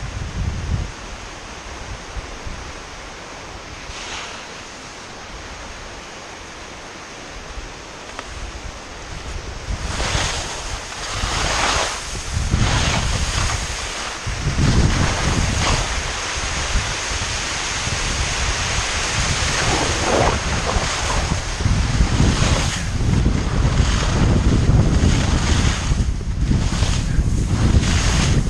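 Wind buffeting the microphone over the hiss and scrape of skis on soft spring snow, swelling with each turn. It grows louder about a third of the way in as the skier picks up speed.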